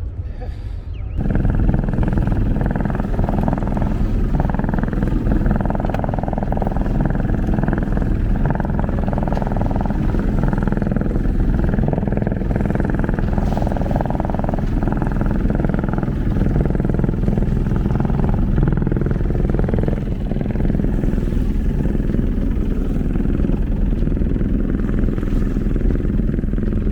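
Yacht's engine starting up about a second in and then running steadily.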